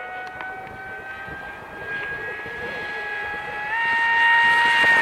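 Electric motor and propeller of a radio-controlled Spiderwing flying wing whining in flight. The pitch creeps up, then steps higher about three and a half seconds in as it gets louder.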